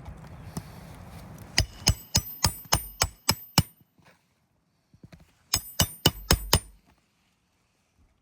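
Hammer driving roofing nails into asphalt shingles: eight quick ringing strikes, then a short pause and five more.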